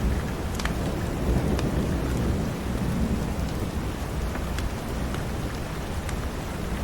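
Steady heavy rain with a continuous low thunder rumble, and scattered sharp crackles and pops from a wood fire in a fireplace.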